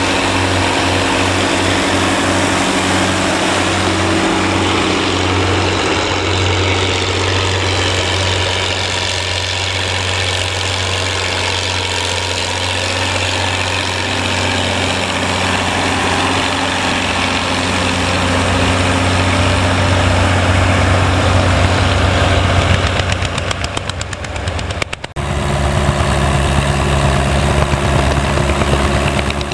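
Vintage tractor engine running steadily. About 25 seconds in the sound drops briefly and switches abruptly to a different engine with a deeper, heavier low throb.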